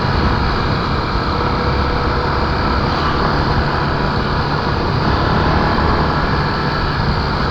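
Honda XR250 Tornado's single-cylinder four-stroke engine running at a steady, even speed while riding, with rushing wind and road noise.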